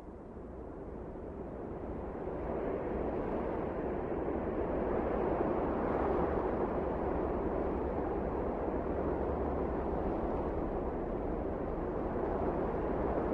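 Wind blowing strongly, a steady rushing with a low rumble, swelling over the first few seconds and then holding steady.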